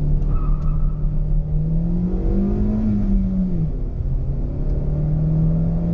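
Hyundai Venue's 1.2-litre petrol engine revving up under full acceleration from a standstill. Its note climbs, drops sharply about three and a half seconds in as the manual gearbox is shifted up, then starts climbing again.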